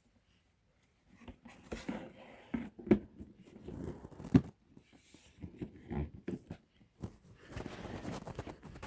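Rustling and handling noises with irregular knocks, starting about a second in; the two loudest knocks come about three and four and a half seconds in.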